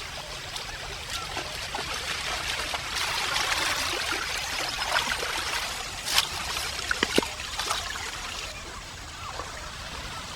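Forest stream water trickling and gurgling, with a few sharp clicks a little past the middle.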